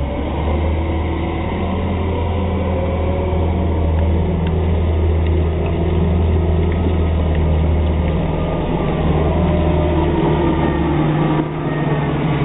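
Heavy rock-carrying truck's engine running steadily with a low drone; its pitch shifts slightly near the end.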